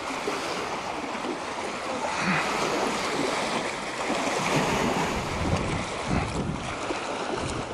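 Strong wind buffeting the microphone: a steady rushing noise, with heavier low gusts about five to six seconds in.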